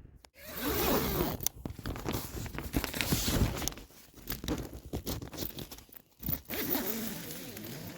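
Close rustling and crinkling of tent fabric and gear, with zips being pulled, in several stretches broken by short pauses.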